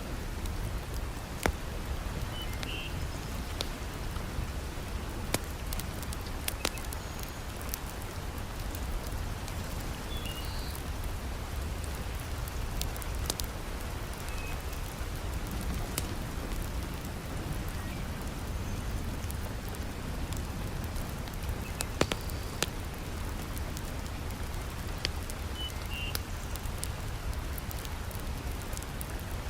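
Heavy rain falling, a steady hiss with a deep low rumble, mixed with a wood fire crackling: scattered sharp pops every second or so, a few of them louder.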